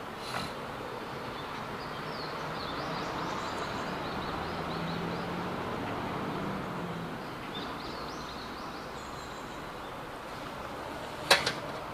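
Outdoor forest ambience: a steady rushing background with small birds chirping again and again. A faint low hum passes through the middle, and two sharp clicks come near the end.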